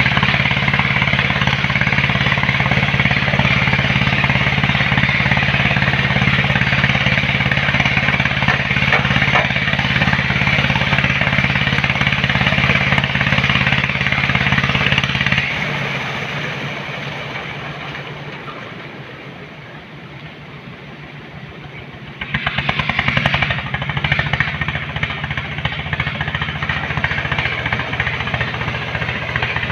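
Heavy diesel engine running steadily with a low, even hum. About halfway through the low hum drops away and the sound fades for several seconds, then comes back suddenly and loud about three quarters of the way in.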